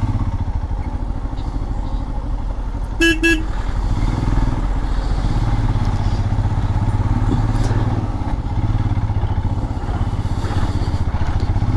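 Motorcycle engine running steadily while riding, with two short horn toots about three seconds in.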